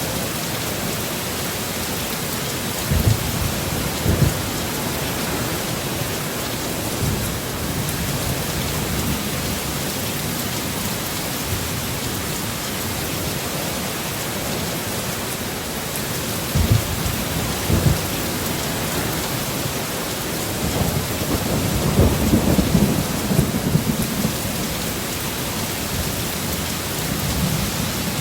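Heavy storm rain falling steadily, with short low thumps twice early on and twice past the middle, and a longer low rumble of thunder near the end.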